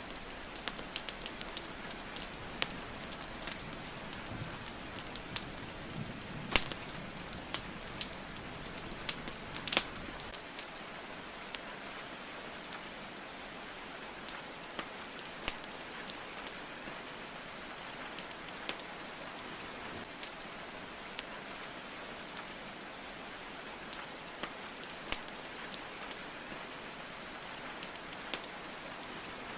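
Wood fire crackling and popping over a steady hiss of rain. The pops come thickly for the first ten seconds or so, with a couple of loud ones, then thin out to scattered cracks.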